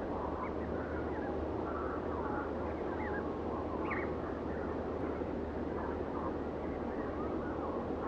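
Small birds chirping, with many short, high calls and quick pitch slides scattered through, over a steady low background rumble.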